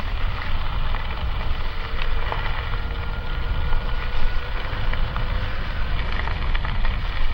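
Wind rumbling on the microphone and tyre noise from a moving electric mountain bike, with a faint steady whine from the electric motor for a few seconds in the middle.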